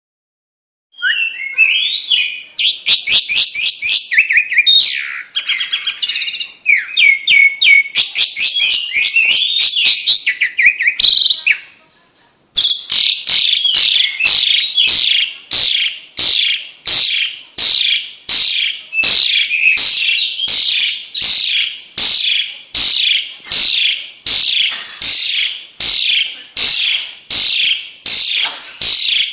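Recorded songbird song in two parts: a fast, varied twittering phrase that begins about a second in, then, after a brief break near the middle, a call repeated evenly about twice a second, each note sweeping down in pitch.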